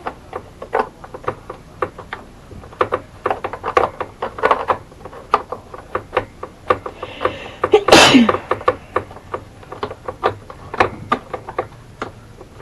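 Light, irregular clicks and taps of a small hand tool working the cover screws out of a chainsaw's plastic top cover, with one loud sneeze about eight seconds in.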